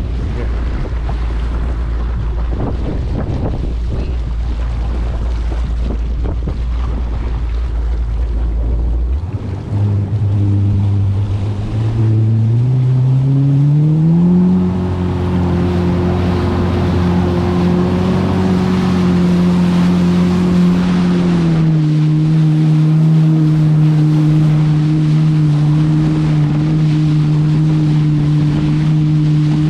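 Jet ski engine running: low wind rumble on the microphone at first, then about nine seconds in the engine note climbs steeply as the craft speeds up, holds steady at speed, drops slightly about two-thirds of the way through and rises again near the end.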